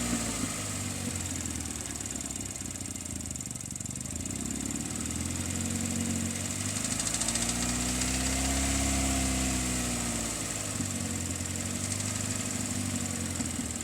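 2002 Hyundai Elantra GLS four-cylinder engine running, settling to idle, then revved gently once, about halfway through, and let fall back to idle. It is being run to check a rattling noise whose source the owner can't find, in an engine that is also burning oil.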